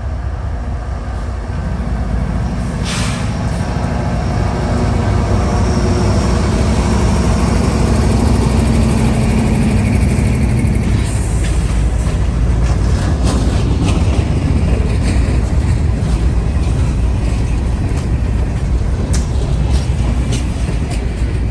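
Diesel locomotives of a CSX freight train pulling away under power, a heavy low engine rumble that builds about two seconds in. From about eleven seconds in, the rolling freight cars add repeated clacks and rattles.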